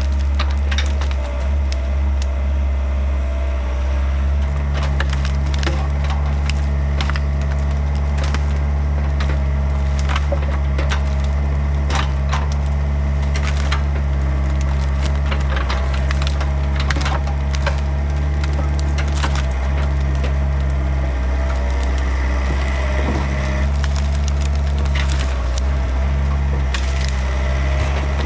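Diesel engine of a Yanmar compact machine running steadily, with many sharp cracks and knocks of wood splintering over it throughout.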